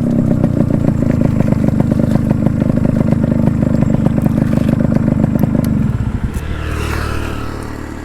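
Yamaha RX 100's two-stroke single-cylinder engine running at low speed with a rapid pulsing beat as the motorcycle is pulled over. About six seconds in the beat drops away and the sound dies down.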